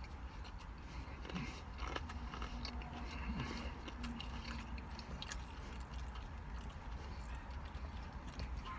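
Close-up chewing of a mouthful of a soft cheeseburger slider: wet mouth clicks and smacks, over a steady low hum.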